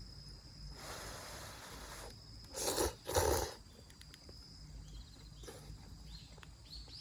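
Miso-stewed udon noodles slurped: a softer breathy draw about a second in, then two loud slurps in quick succession near the middle, followed by faint scattered clicks.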